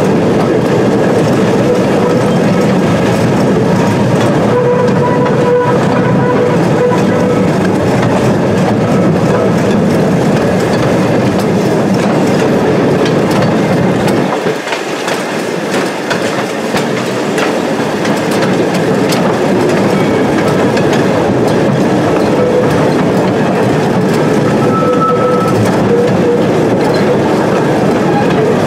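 A slow excursion train runs along the track behind a small diesel locomotive, heard from an open passenger car: a steady rolling rumble of wheels on rail. A faint steady tone comes and goes over it, and the low rumble drops away briefly about halfway through.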